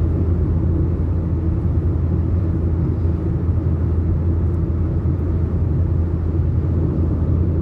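Steady low rumble of a vehicle being driven, heard from inside the cab: engine and road noise, with strong sandstorm wind pressing on the vehicle.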